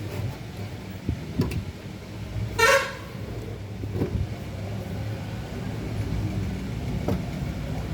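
A vehicle horn gives one short toot about two and a half seconds in, over a steady low hum, with a few light knocks before and after.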